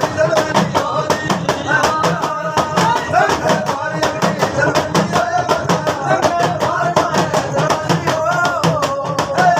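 Folk devotional song performed by a singing party: a wavering melodic voice over a fast, even percussion beat of about five strokes a second.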